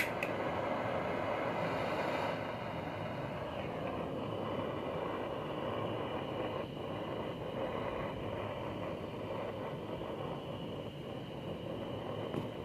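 Handheld butane torch lit with a click and burning with a steady rushing flame, heating the crankcase so the metal expands and the crankshaft can slide in.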